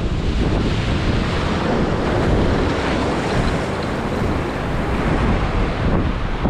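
Surf breaking on the shore, with wind buffeting the microphone in a steady, heavy rumble.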